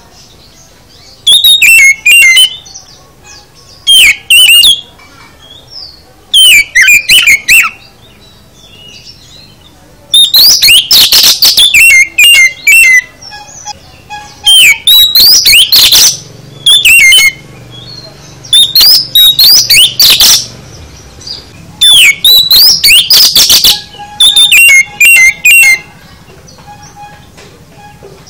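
Oriental magpie-robin (kacer) singing a loud, varied song of whistles, rising and falling glides and rapid trills, filled with many different phrases. It comes in bursts of one to three seconds separated by short pauses, about nine phrases in all.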